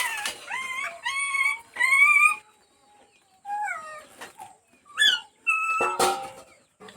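A series of short, high-pitched animal calls, some rising and some falling, from a domestic animal, with a sharp click about six seconds in.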